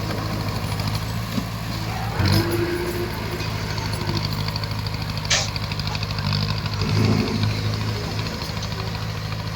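Bulldozer's diesel engine running steadily, with brief surges about two seconds in and again near seven seconds, and a sharp knock about five seconds in.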